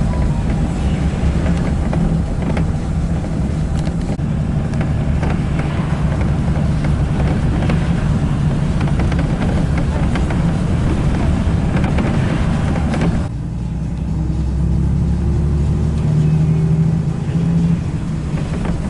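A car on the move: steady engine and road rumble with tyre hiss. About 13 seconds in the hiss drops off abruptly and a faint rising engine tone comes through.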